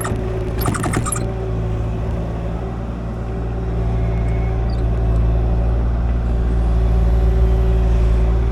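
Kubota KX040 mini excavator's diesel engine running steadily while it works the dirt, getting louder about halfway through as it takes more load. A brief high metallic squealing or clatter comes in the first second.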